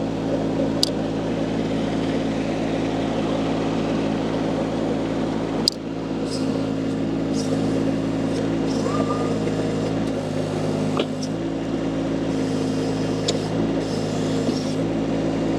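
Mini skid steer loader's engine running steadily, with a few sharp clicks and knocks from the machine.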